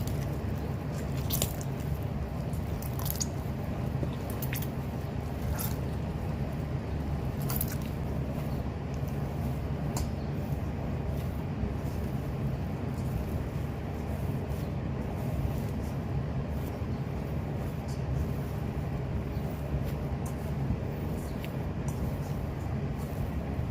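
Bread dough with oil being kneaded by hand, giving short wet squishes and clicks that come more often in the first ten seconds, over a steady low hum.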